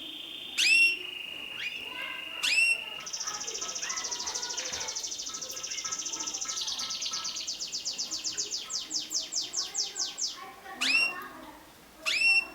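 Mosaic canary singing. A fast, high trill slows into a run of separate, distinct notes, set between loud, sharp chirps.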